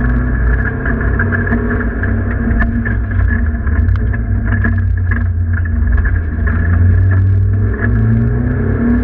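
Competition car's engine and drivetrain heard from inside the cockpit, running hard and steady under load, with scattered short rattles and knocks.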